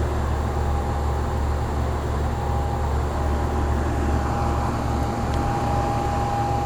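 Old heat pump's outdoor condensing unit running in cooling mode: a steady low hum from the compressor and condenser fan. A steady whine fades in about two seconds in and holds.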